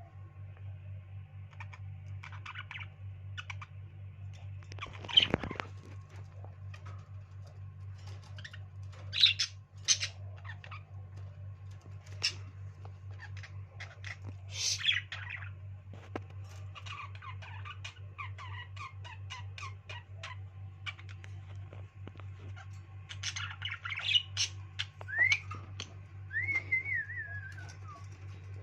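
Pet birds chattering, with scattered sharp squawks, chirps and short whistled calls; a few gliding whistles come near the end. A low steady hum runs underneath.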